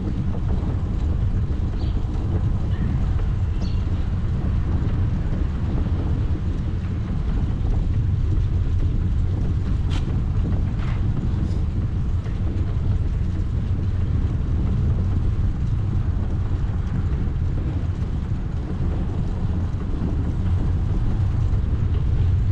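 Steady low rumble of wind buffeting the microphone while riding a bicycle, with a sharp click about halfway through.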